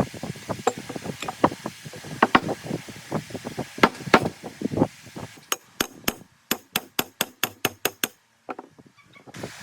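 Hand tool work in a workshop: irregular sharp knocks and clinks, then a quick even run of sharp taps, about five a second, that stops about eight seconds in.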